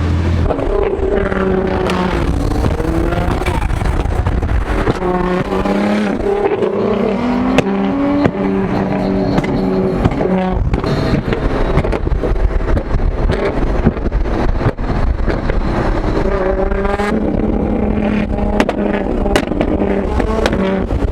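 Loud car engines and exhausts revving, the pitch rising and falling again and again over a constant rumble.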